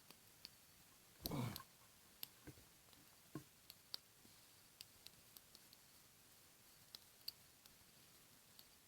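Small campfire crackling softly: scattered, irregular sharp pops and ticks, with one louder burst about a second in.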